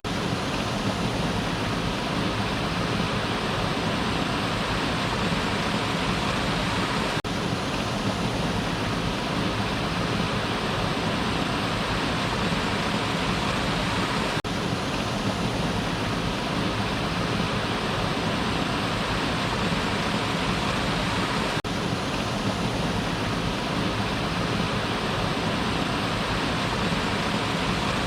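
Waterfall: water falling steadily, an even unbroken noise of splashing water.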